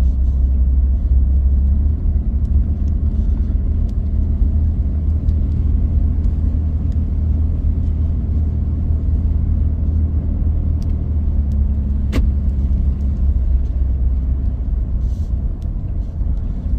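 Steady low rumble of a vehicle driving, road and engine noise, with a single sharp click about twelve seconds in.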